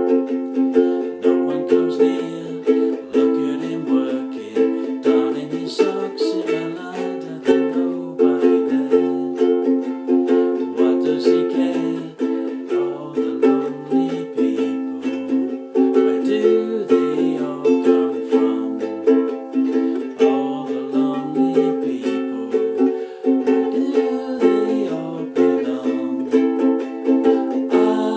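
Acoustic string instruments, ukulele-like in tone, strumming chords in a steady, even rhythm, with lower notes moving underneath.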